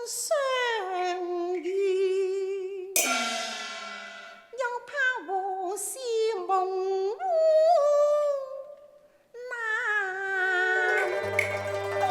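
Cantonese opera accompaniment music: a melody of sliding, wavering notes, with a cymbal crash about three seconds in. The music dips briefly near the end, then the fuller ensemble comes back in.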